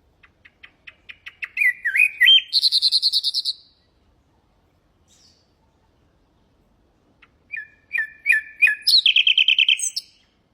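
Nightingale singing two song phrases a few seconds apart. The first is a run of ticking notes that speeds up into a loud, fast trill. The second is a few repeated whistled notes that break into another fast trill.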